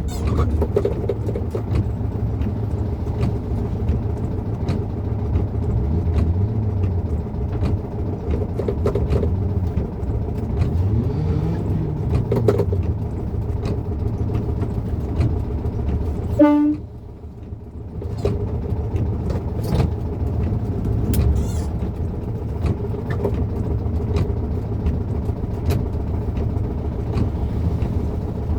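Volkswagen Beetle's air-cooled flat-four engine running from inside the cabin in traffic, its pitch rising and falling a few times as the car speeds up and shifts. A short horn toot sounds about halfway through, with many faint light clicks throughout.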